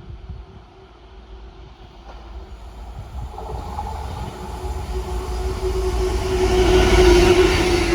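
Diesel train approaching, its engine note steady while the rumble and hiss of the train grow louder, loudest about seven seconds in.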